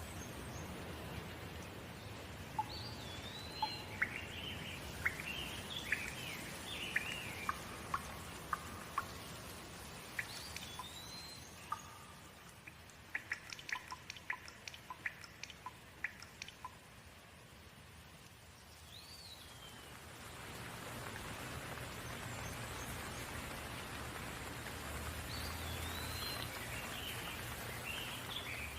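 Steady rain hiss with birds chirping and calling over it in bursts; the rain swells louder in the second half.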